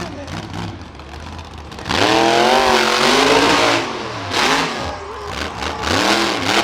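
Monster truck engine revved hard for about two seconds over a steady idle, its pitch wavering as the throttle is worked. Two shorter revs follow near the end.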